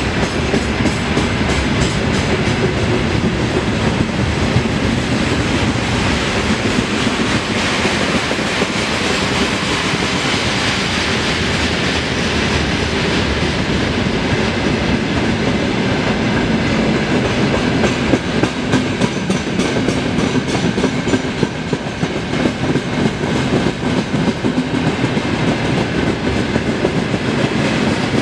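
Freight train wagons rolling past close by at speed: a steady rumble and rattle of steel wheels on the rails with a rapid clickety-clack of the wheelsets, growing more uneven in the second half.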